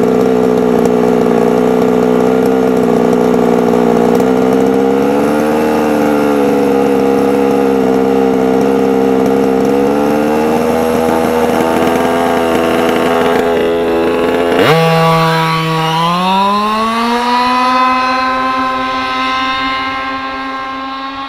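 Gasoline two-stroke engine of a Losi 5ive-T 1/5-scale RC truck running hard on a speed run, holding a fairly steady pitch. About fifteen seconds in the pitch jumps sharply higher and keeps climbing before levelling off, while the sound grows fainter near the end.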